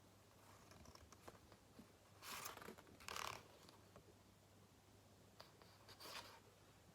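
Near silence: room tone with two faint, brief rustles about two and three seconds in, plus a few tiny ticks.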